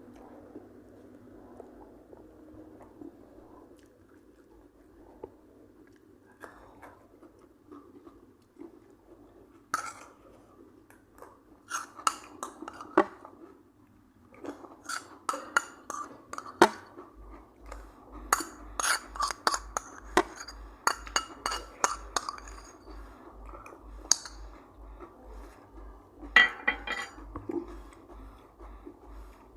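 A person eating chicken biryani, chewing, with many sharp clinks and knocks of dishes and cutlery, thickest through the middle and one loud clink near the end.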